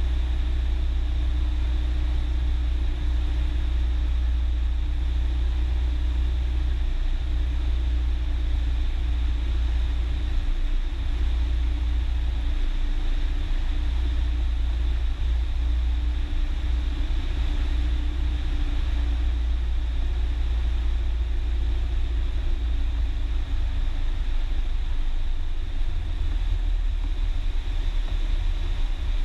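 Cessna 172's piston engine running at a steady speed, a constant low drone heard inside the cockpit.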